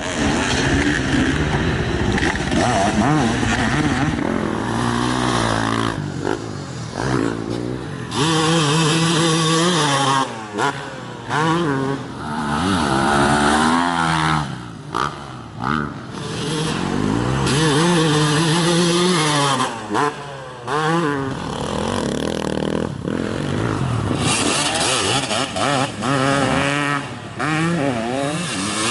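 Motocross dirt bikes riding laps, their engines revving up and dropping back again and again as they accelerate and shift, with the sound cutting out briefly several times.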